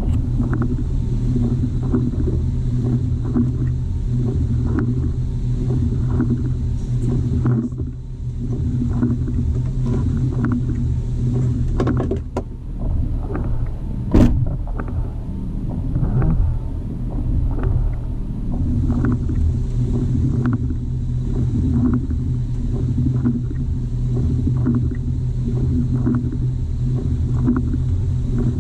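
Electric winch on a Jeep TJ running under load as it drags a dead fallen tree, with a steady low hum and regular faint ticks, and one sharp knock about fourteen seconds in.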